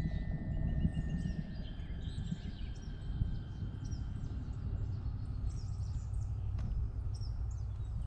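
Birds chirping repeatedly in short high calls over a low steady rumble.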